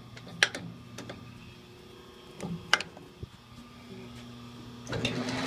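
Logan 11-inch metal lathe running quietly on a medium power feed, a steady hum from the motor and rotary phase converter with a few sharp ticks from the flat drive belt. Near the end a louder, steady rushing noise comes in.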